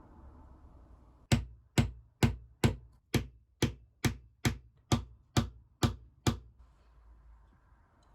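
Twelve sharp, evenly spaced knocks, a little over two a second, starting about a second in and stopping about two seconds before the end.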